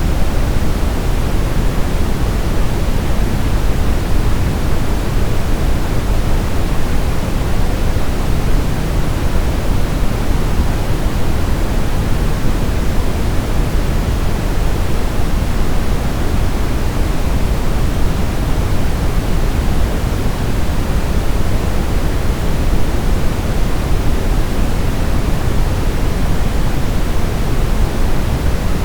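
Steady brown noise: an even, unchanging rush of noise weighted toward the low end, with no tones or events.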